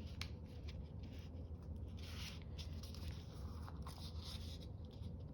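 Paper rustling and sliding as sheets are handled and folded, with a soft swish about two seconds in and a few light ticks, over a low steady hum.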